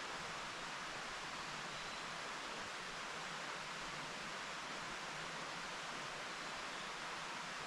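Mountain stream flowing steadily over rocks: an even, unbroken rush of water.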